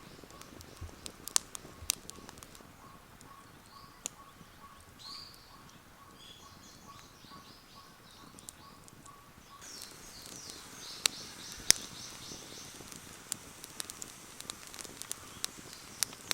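Wood campfire crackling, with sharp irregular pops, while birds chirp in the background, more busily from about ten seconds in.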